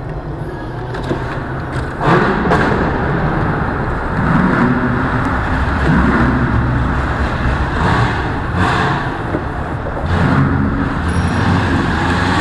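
Car engine and road noise heard from inside a car's cabin at low speed in traffic, with a low engine note swelling several times.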